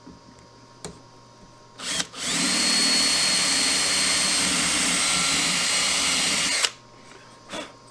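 Power drill spinning up and running steadily for about four and a half seconds, then stopping suddenly. There are single knocks shortly before and after it.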